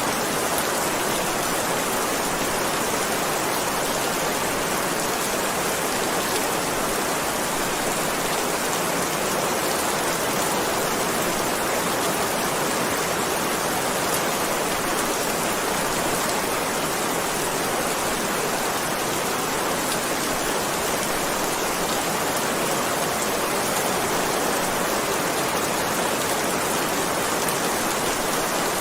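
Heavy rain falling steadily, a dense even hiss of rain with no single drops or thunder standing out.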